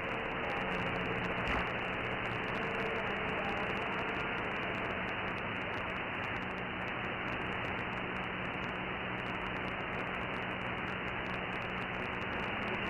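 CB radio receiver static: an even hiss of band noise on an open channel between skip transmissions, cut off above about 3 kHz by the receiver's filter, with a faint steady low hum under it.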